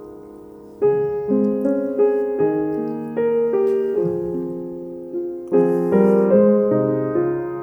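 Background piano music: a slow, gentle melody of struck notes and chords that ring and fade. A held chord dies away, then a new phrase begins about a second in and another about five and a half seconds in.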